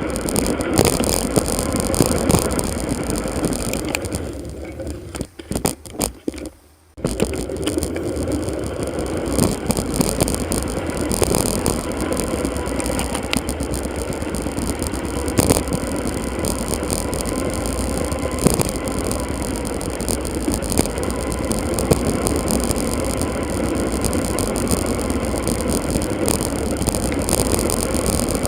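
Bicycle ride noise sped up four times: a steady rush of wind and road noise with rapid small rattles and knocks, dropping away briefly about five seconds in before returning.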